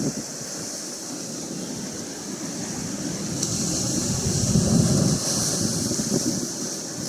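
Atlantic Ocean surf washing in, with wind blowing across the microphone; the waves swell to their loudest about four to five seconds in.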